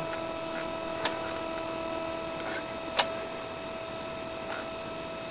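Steady electronic hum made of several fixed tones: a radio-control transmitter's signal bleeding into the camera's electronics. A couple of sharp clicks cut through it, a faint one about a second in and a louder one about three seconds in.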